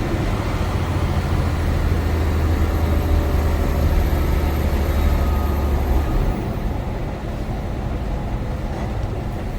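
Semi-truck diesel engine droning, with road and tyre noise, heard inside the cab. About six seconds in the low engine drone drops away and the cab gets a little quieter.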